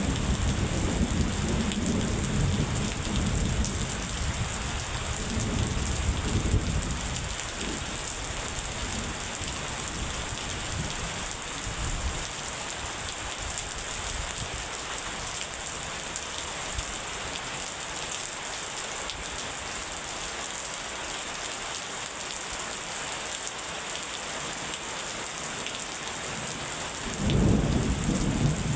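Steady rain falling in a thunderstorm. Thunder rumbles low under the rain for the first several seconds and dies away. Another peal of thunder starts near the end.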